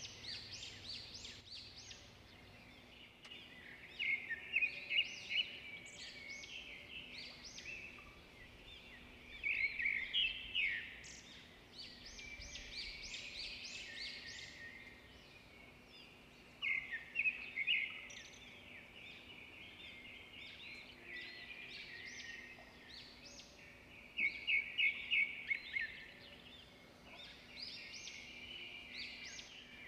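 Birds chirping, in bursts of rapid high notes that come about every six to seven seconds, with softer chirps in between.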